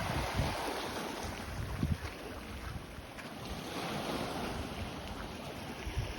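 Sea waves washing on a beach, with wind rumbling on the microphone.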